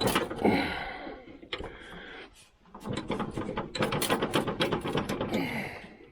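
Irregular metal clanks, knocks and scrapes of hand work on a riding lawnmower's deck and frame.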